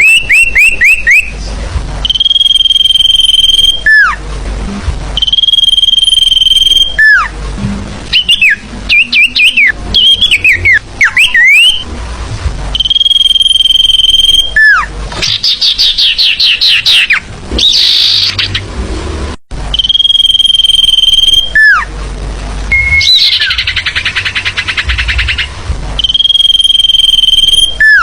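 Loud recorded lure call of forest birds, used by bird trappers. Long steady high whistles, each ending in a falling slur, recur every few seconds. Between them come runs of quick rising chirps and rapid buzzy trills, in a pattern that repeats like a loop.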